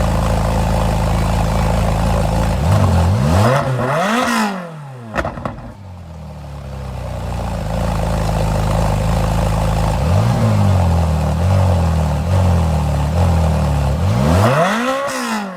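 Ferrari engine with a straight-piped exhaust, running steadily at first. It is then blipped: a sharp rev up and back down about three seconds in, and again near the end. In between it picks back up and runs at a pulsing, raised speed.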